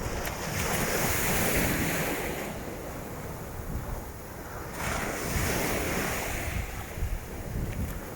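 Surf washing onto the beach in two swells about four seconds apart, with strong wind buffeting the microphone.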